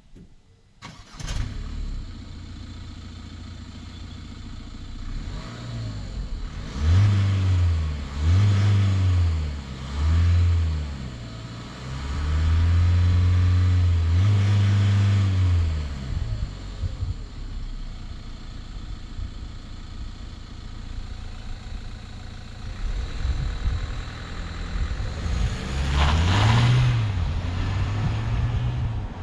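Renault Trafic's 2.0-litre turbo-diesel four-cylinder starting about a second in and settling to a steady idle. It is then revved: three short blips, a longer held rev, and one more rev near the end, dropping back to idle each time.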